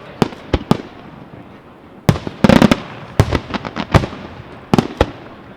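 Fireworks display bursting in sharp, irregular bangs: a few reports, a dense flurry about two seconds in, then scattered single bangs with short echoing tails.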